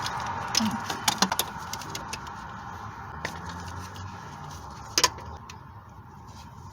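Light plastic clicks and rattling as fuel injector electrical connectors are worked loose by hand, with a sharper click about five seconds in.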